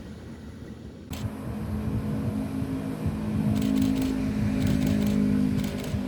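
A diesel train running past: a steady engine drone that starts abruptly about a second in and grows louder, with quick clicks in clusters of about three, the wheels going over rail joints.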